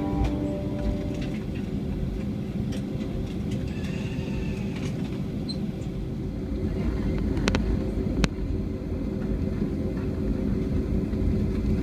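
Airbus A320 cabin noise on the ground before takeoff: a steady low rumble of idling engines and air conditioning. A couple of sharp clicks sound about seven and eight seconds in.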